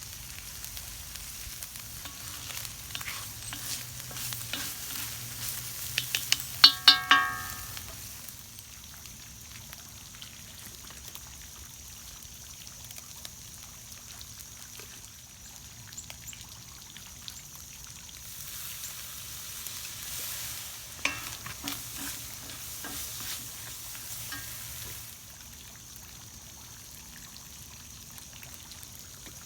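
Food sizzling as it is stir-fried in a Lodge cast iron wok, with a utensil stirring and scraping. A quick run of loud, ringing clanks against the wok comes about six to seven seconds in, and a few more near twenty-one seconds.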